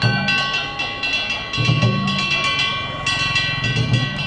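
Danjiri festival music: taiko drum strikes in quick clusters with small hand gongs (kane) ringing steadily over them.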